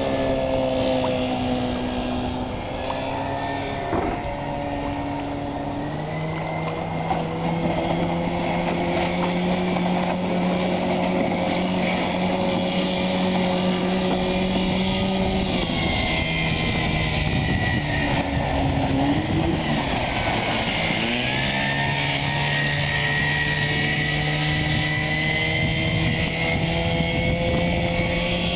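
Motor of a PS-290 fibreglass motorboat running steadily under way. The engine note drops and wavers about two-thirds of the way through, then settles back to its steady pitch.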